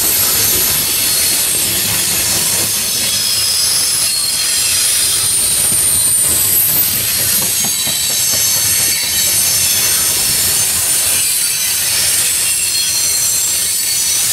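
CSX coal hopper cars rolling past close by on a curve: a steady rumble of wheels on rail under a continuous high-pitched squeal of the wheels.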